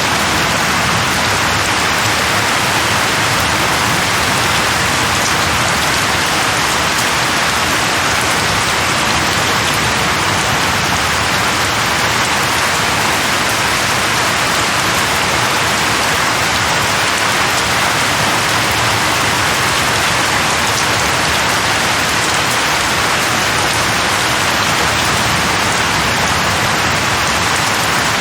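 Steady, even rainfall, a dense continuous hiss of rain without thunder or distinct drops standing out.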